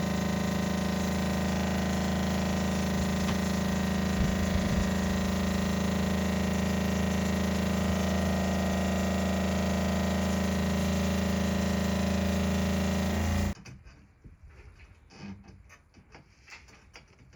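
A small electric motor running at a steady speed with a constant hum, cutting off abruptly about thirteen seconds in, followed by a few faint clicks.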